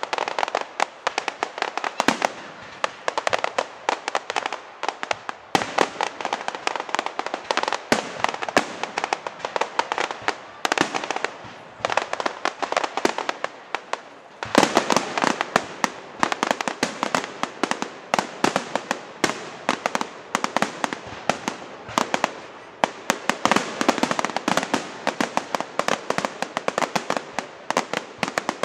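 Fireworks display: a dense, continuous stream of sharp bangs and crackles, growing louder and thicker about halfway through.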